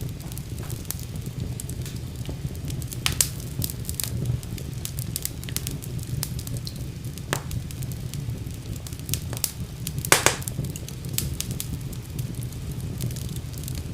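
Wood fire burning in a fireplace: a steady low rumble of flames with scattered crackles and sharp pops, the loudest pops about three, seven and ten seconds in.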